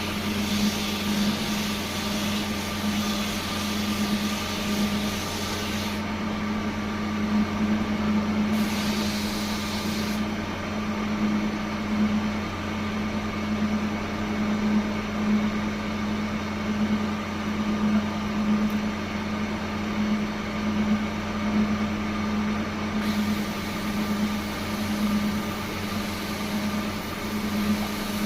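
Electric woodworking machine running steadily: a motor hum with a slow, even pulse. A higher hiss comes and goes over it, dropping out about six seconds in, returning briefly, then coming back near the end.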